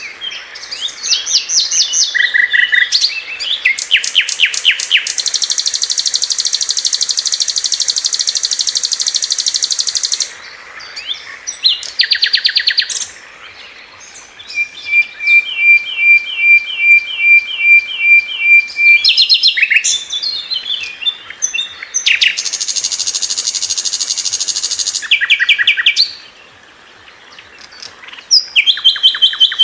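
Sikatan londo flycatcher singing a loud, varied song. Long high, buzzy trills alternate with quick chattering phrases, and in the middle comes a run of evenly repeated notes.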